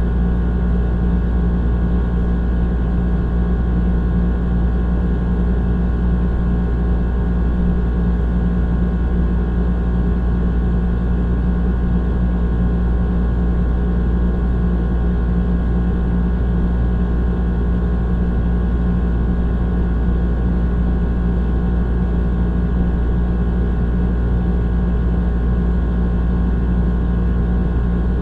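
Old air conditioner running steadily: a deep, constant hum with a rushing fan noise and several steady tones above it, unchanging throughout.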